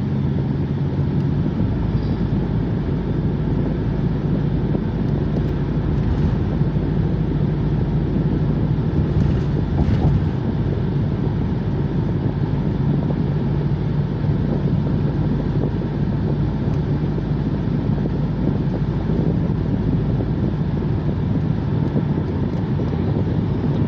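A car driving: steady engine and road noise with a constant low hum, unchanging throughout.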